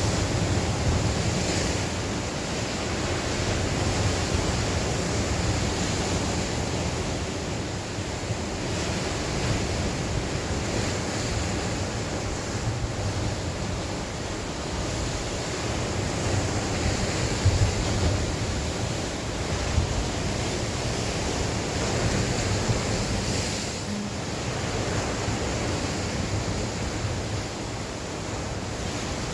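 Sea waves breaking and washing on the shore in a steady wash that swells and ebbs every few seconds, with wind blowing and buffeting the microphone in low rumbles.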